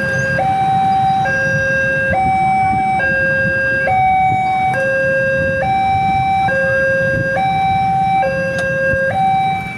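Railway level-crossing warning alarm sounding: an electronic signal alternating steadily between a low and a higher tone, each held a little under a second, warning that a train is approaching and the barrier is down.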